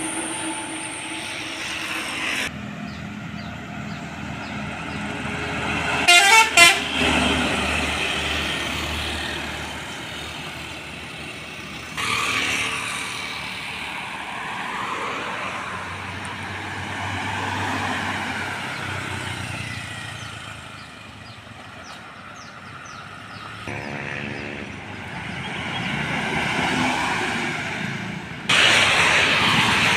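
Road traffic with trucks passing, and a vehicle horn sounding loudly for about a second around six seconds in. The sound changes abruptly several times where the footage is cut.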